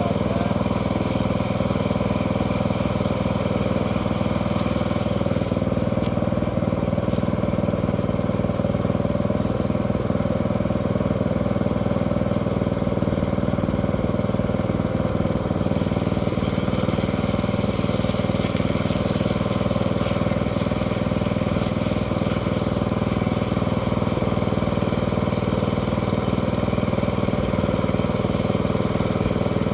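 An engine running steadily at one even speed, with no change in pitch or loudness.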